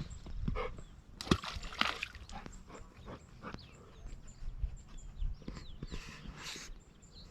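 A few scattered wet squelches and sloshes of steps in mud and shallow water, irregular and short.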